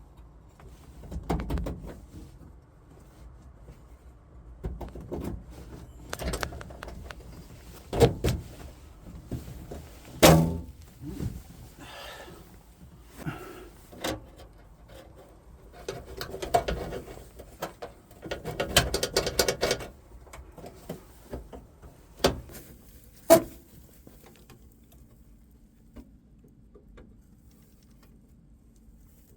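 Hands working vacuum pipework in a truck cab: irregular knocks and clunks, two of them sharp and loud, between stretches of scuffing and rustling, then quieter near the end.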